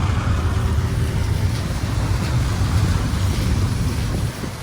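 Taxi cabin noise while driving: a steady low rumble of engine and road with a light hiss above it, easing a little near the end.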